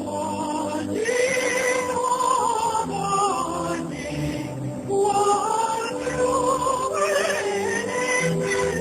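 A song: a voice singing a slow melody with vibrato, in phrases a second or two long, over instrumental accompaniment.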